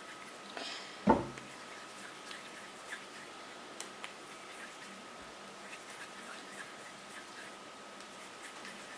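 Quiet handling sounds of potter's clay being rolled into balls between the hands: faint rubbing and scattered soft ticks, with one sharp thump about a second in. A faint steady hum runs underneath.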